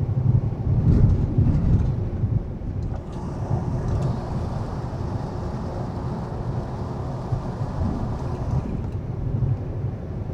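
Inside a semi-truck's cab at highway speed: the diesel engine's steady low drone with road noise, and a hiss that comes in about three seconds in and fades near the end.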